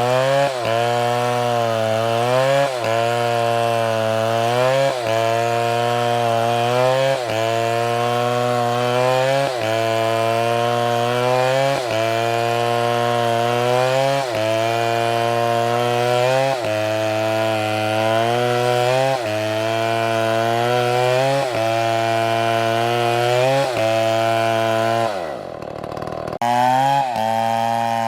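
Two-stroke chainsaw cutting wood at high revs, its engine note sagging under load and recovering about every two seconds. A little before the end the engine note drops sharply, then the full note returns abruptly.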